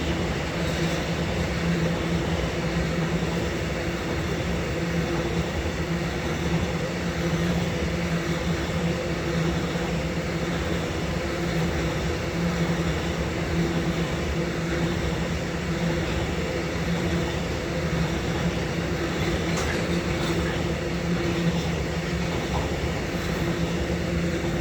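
Freight train of grain hopper wagons and tank-container wagons rolling past, a steady rumble with a constant low hum.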